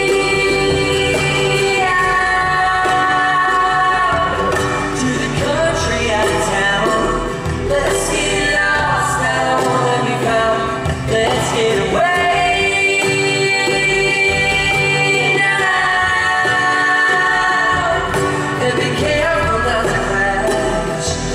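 Live pop music: the band playing while several voices sing long, held notes in harmony.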